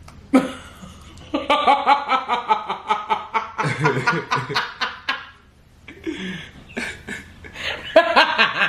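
People laughing in two bouts: a long run of rapid, repeated laughing pulses through the first half, a short pause, then another burst of laughter near the end.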